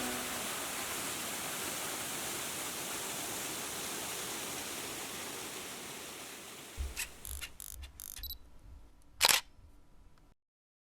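A steady hiss that slowly fades, then a run of small clicks and one louder click about nine seconds in.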